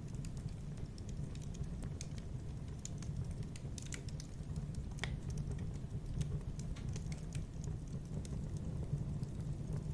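Wood fire in a fireplace crackling: irregular sharp pops and snaps over a steady low rumble of flame.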